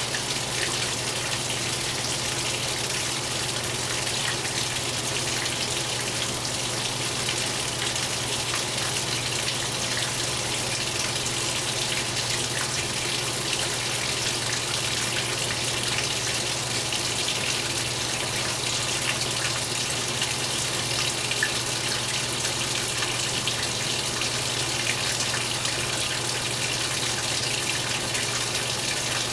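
Water rushing steadily inside a 2015 Speed Queen 8 Series top-load washing machine, over a constant low hum.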